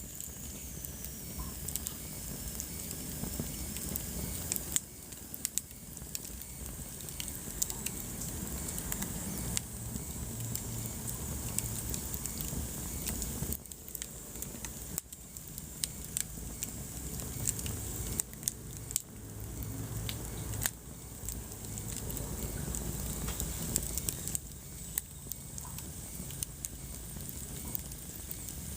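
Wood fire crackling in a fireplace: frequent sharp pops and snaps of burning wood over a steady low rush of flame. The level dips suddenly a few times, about five, fourteen and twenty-one seconds in.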